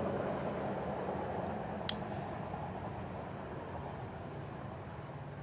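Steady high-pitched insect trill over a low hiss, with one sharp click about two seconds in.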